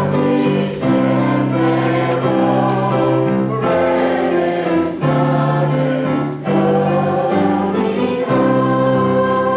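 Choir singing, with held chords that change every second or so.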